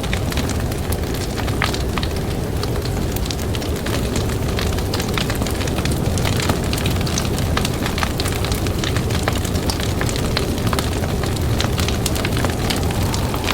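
Campfire crackling, with frequent sharp pops scattered throughout, over a steady low rush of blizzard wind.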